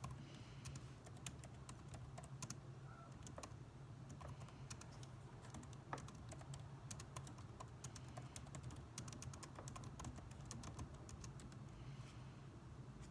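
Typing on a computer keyboard: quick, irregular keystrokes, thickest toward the middle and later part, over a steady low hum.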